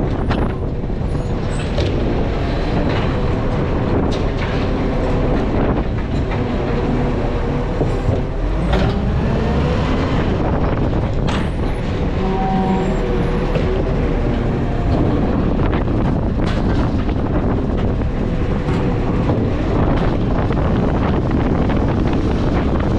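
A heavy vehicle running: a steady, loud noise with faint pitched whines drifting through it and occasional clicks.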